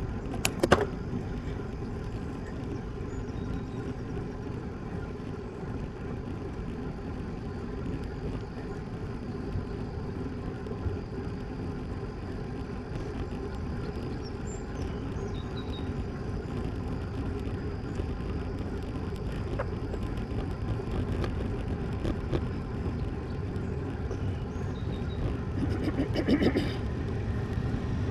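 Steady rumble of tyres on asphalt and wind on the microphone while riding a road bike, with a sharp click about a second in and a short rattle of clicks near the end.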